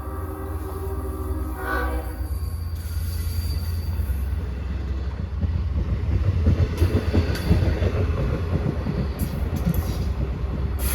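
Long Island Rail Road diesel train sounding its horn, a chord that ends about three seconds in, over a steady deep engine rumble. The train then rolls past with wheels clattering on the rails, loudest midway through.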